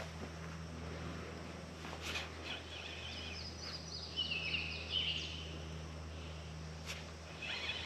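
A bird calling a quick series of high, stepped notes from about two and a half to five and a half seconds in, over a steady low hum, with a sharp click at the very start.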